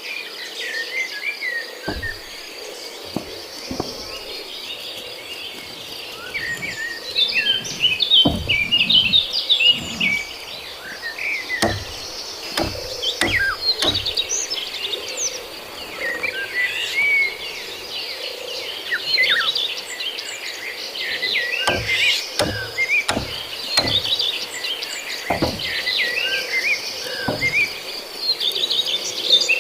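Tropical forest ambience: a steady insect drone with many short bird chirps over it, broken by about fifteen irregular knocks and thumps from the building work, some in quick pairs.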